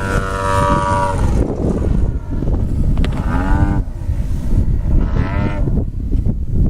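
Gusty wind buffeting the microphone with a heavy low rumble, broken three times by a short pitched sound that swells and falls away: near the start, about three seconds in and about five seconds in.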